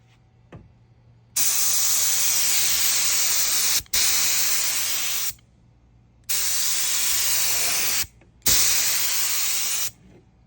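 Compressed-air paint spray gun laying Awlgrip topcoat: four bursts of hiss as the trigger is pulled and released, the first two split by only a brief break.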